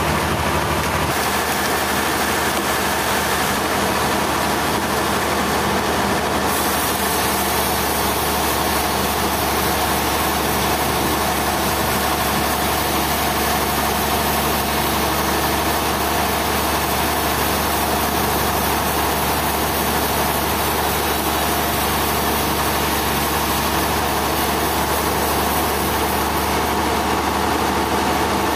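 Sawmill machinery running steadily: a constant engine drone with a hiss over it, changing slightly in tone about a second in.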